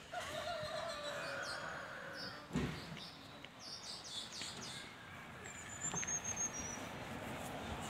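Scattered bird chirps and calls, with one loud thump about two and a half seconds in and a high whistled note a little after six seconds.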